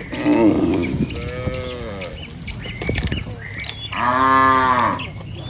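Cattle mooing: a rough low call at the start, a long moo about a second in, and a louder long moo about four seconds in. Birds chirp throughout.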